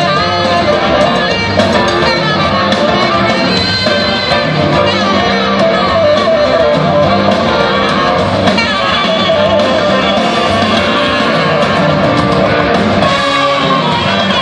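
Live rock band playing a jam, with a lead electric guitar playing gliding, bending notes over bass and drums.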